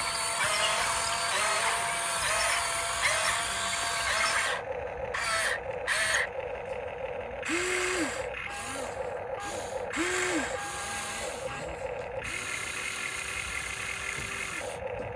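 Electric gear motors of a radio-controlled Huina construction model whining as the controls are worked, stopping and starting repeatedly with the pitch rising and falling each time, over a steady gearbox buzz.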